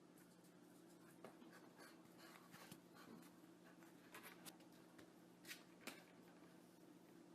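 Near silence: a faint steady hum with scattered soft ticks and scratches, a couple slightly louder about five and a half and six seconds in.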